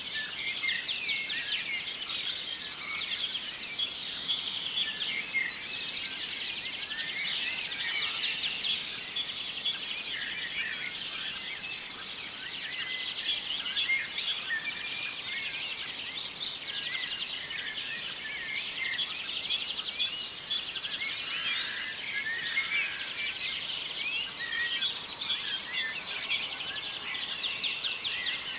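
Dawn chorus: many songbirds singing at once, a dense overlapping mix of chirps, trills and whistled phrases.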